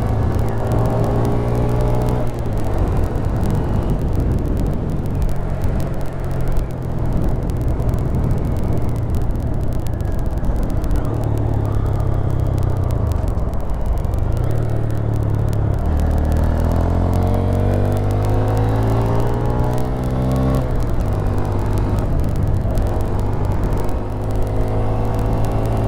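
Honda Grom's single-cylinder 125 cc engine under way, pitch climbing as it revs up and dropping back at gear changes, about 2 s in and about 20 s in.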